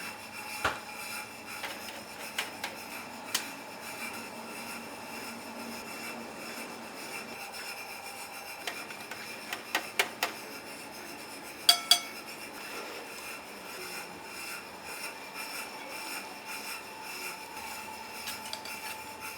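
Kitchen prep work: a continuous rubbing and scraping with scattered sharp clinks of metal pots and utensils, several in quick succession near the middle, over a steady background hum.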